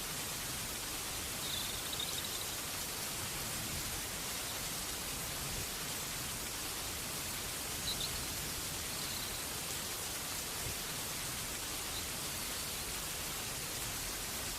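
Steady rain falling, an even hiss with no change in level. A few faint, brief high chirps sound over it, about two seconds in and again near the middle.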